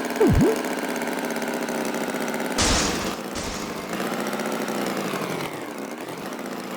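A steady engine drone, with a quick swooping whistle-like glide down and back up just after the start and two short hissing bursts around the middle.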